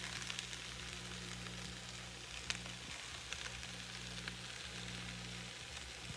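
Chicken, broccoli and pasta sizzling in a hot pan as Alfredo sauce is mixed in: a steady hiss with scattered small crackling ticks, over a steady low hum.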